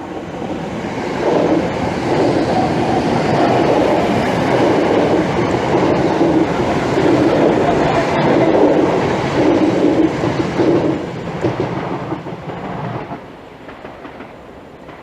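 British Rail Class 321 electric multiple unit passing by on the rails. The noise swells about a second in, stays loud, then dies away after about eleven seconds.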